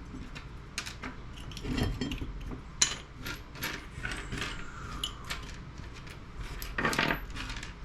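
Small metal clicks and taps of hand tools and electronic components being worked off a CRT monitor circuit board, with one sharp click a few seconds in and a short scrape near the end.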